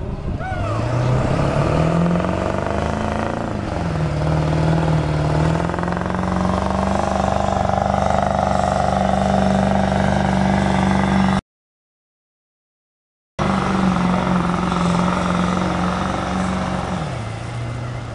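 Ford Power Stroke diesel pickup engine revving up hard and held at high revs under heavy load while pulling a weight sled, with a brief dip in revs and recovery a few seconds in, typical of a gear shift. Near the end the revs drop as the engine eases off. The audio cuts out completely for about two seconds partway through.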